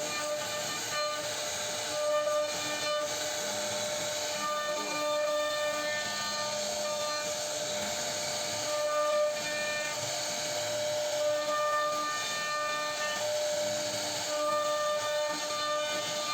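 CNC router spindle whining at a steady high pitch while its bit cuts into wood, with a hissing cutting noise; the whine grows stronger and fades every second or two as the bit's load changes.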